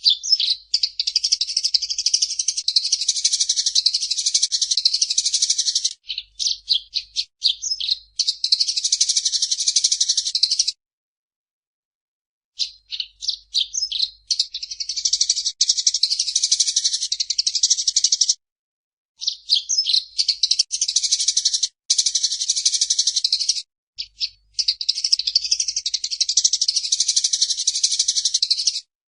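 Eurasian tree sparrow chattering in long, rapid bouts of high chirps lasting several seconds each, with silent breaks, the longest of about two seconds near the middle.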